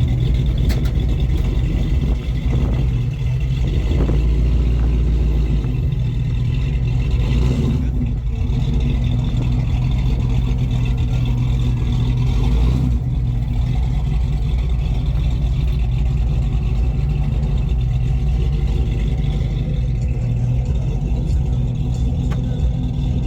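A car engine idling steadily and loudly, its low note holding even throughout.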